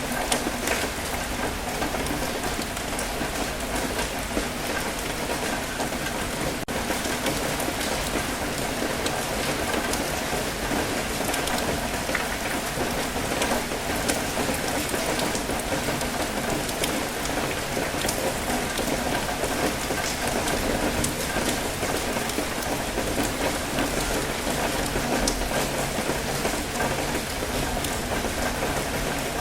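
Steady rain falling, with a dense patter of fine drops over a broad wash of water noise from waves on a rocky shore.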